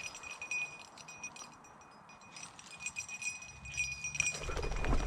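A hunting dog's collar bell jingling irregularly as a cocker spaniel pushes through cover working a bird, with the bell going quieter for a moment and louder rustling building near the end.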